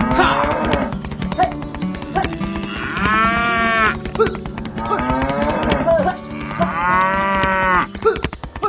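Cattle mooing: two long calls, about three seconds in and again near seven seconds, each rising and falling in pitch, with scattered clicks in between.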